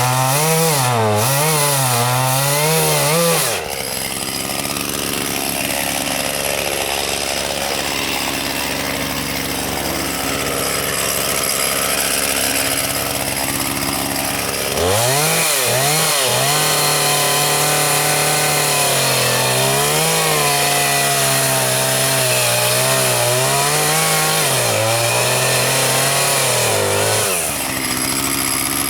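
Chainsaw running at high revs, its engine speed rising and falling, then dropping back about four seconds in. It revs up again from about halfway and drops back near the end.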